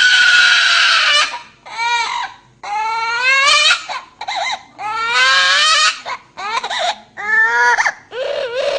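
Parrot mimicking a newborn baby's crying: a run of about nine high-pitched wailing cries, each under a second to over a second long, some bending or rising in pitch. The first and longest cry is the loudest.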